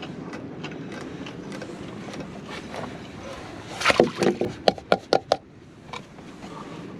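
Rabbit's iced-over water dish being knocked to dump out the ice: a quick cluster of about six sharp knocks a little past the middle, over a steady background hiss.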